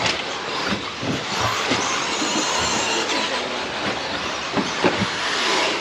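Electric RC stadium trucks and truggies running on a race track: a steady, noisy wash with a faint whine of brushless motors, and two sharp knocks near the end.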